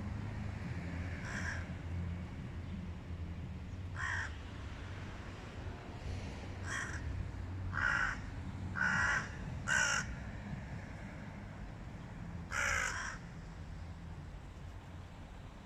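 Hooded crows cawing: about seven single harsh caws at uneven intervals, with a cluster of four in quick succession around the middle, over a steady low rumble.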